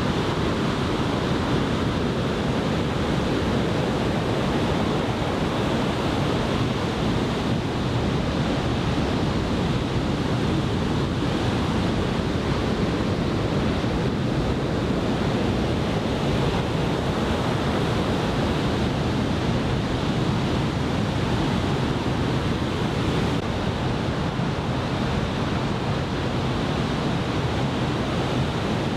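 Large typhoon-swell surf breaking on the shore, an even, unbroken wash of noise.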